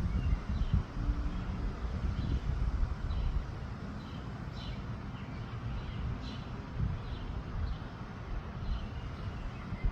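Wind rumbling on the microphone in uneven gusts, with birds chirping briefly about once a second.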